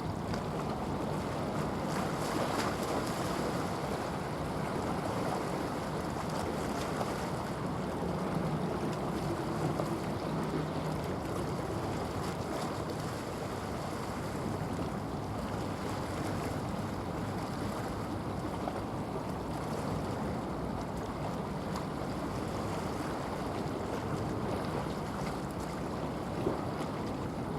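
Steady wind rushing on the microphone and water washing, with a faint low drone of a passing ship's engine underneath.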